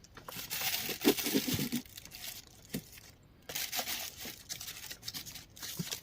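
Radio scanner static: crackling hiss in two stretches of about two seconds each, with a short quiet gap between them.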